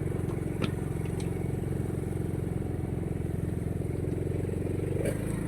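An engine running steadily at idle, a low, evenly pulsing drone.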